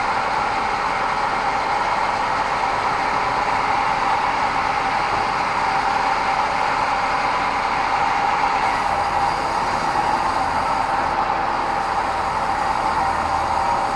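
Sawmill bandsaw running with a steady, unbroken noise.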